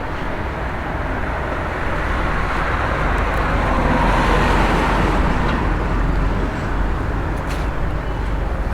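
A car passing by: the engine and tyre noise swells to a peak about four to five seconds in, then fades away, over steady road traffic and a low rumble.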